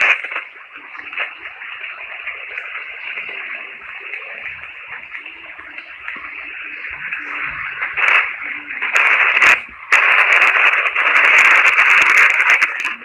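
Radio-like static hiss and crackle, played back as the 'sound of Mars'. It grows much louder about nine seconds in.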